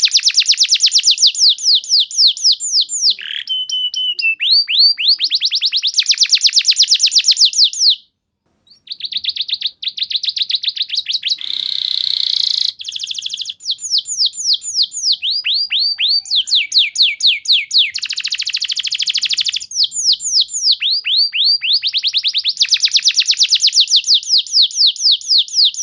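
Domestic canary singing a long, loud song of fast trills: rows of quick downward-sweeping notes, many a second, each trill giving way to another, with a short break about eight seconds in.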